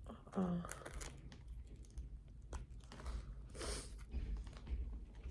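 Close-up eating sounds: irregular crunching and chewing of crunchy snack food, with some crinkling.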